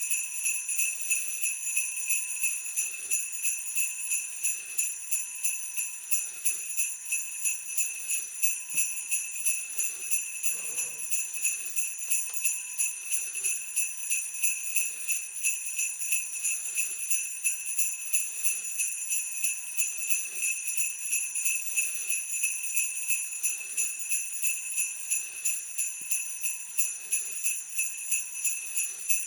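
Sleigh bells jingling, shaken in a steady, even rhythm.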